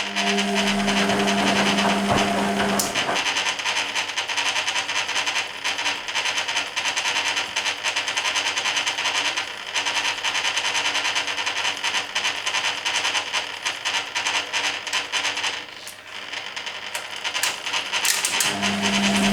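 Hoover Keymatic A3112 washing machine in its rinse: water and wash load sloshing in the stainless steel drum. A steady machine hum runs for the first few seconds and comes back near the end as the machine moves into its drain.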